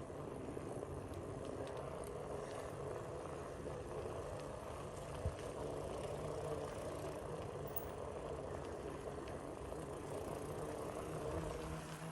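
Steady hum of a motor vehicle engine running.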